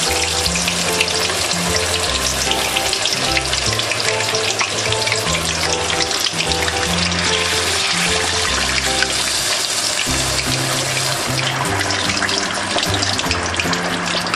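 Cactus pad deep-frying in hot oil in a skillet: a dense, steady crackling sizzle, with background music and its bass line underneath.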